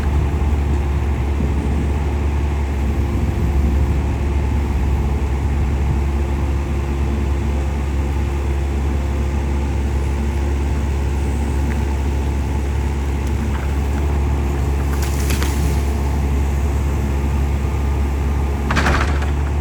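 Compact excavator's diesel engine running steadily under load while it pushes a tree over, with two short crackling bursts, about fifteen seconds in and near the end.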